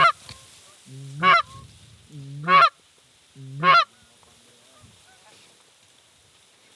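A hunter's goose call blown four times, about a second apart. Each call is a low moan that breaks sharply up into a high honk, calling to approaching geese.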